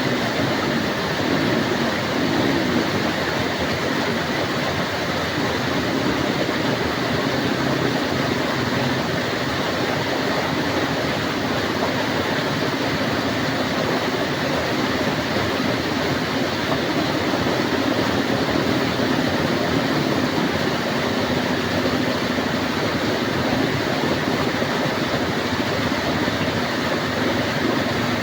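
Heavy tropical rain falling steadily: a dense, even hiss with no let-up.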